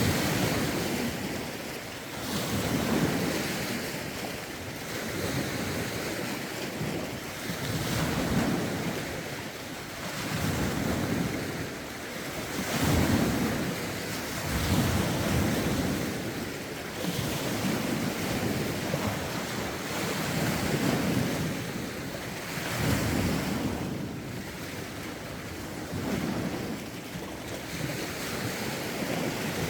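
Lake waves washing in a steady rhythm, a swell about every two seconds, with rough wind gusting against the microphone.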